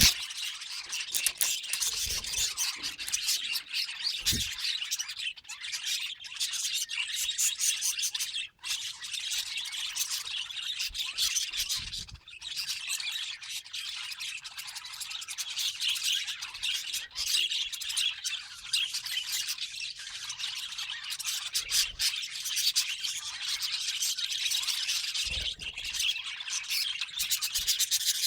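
Budgies chattering continuously in a rapid, high-pitched twitter.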